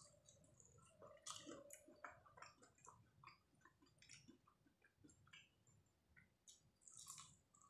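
Faint close-up chewing of crispy fried chicken: short wet crunches and mouth clicks, strongest about a second in and again near the end.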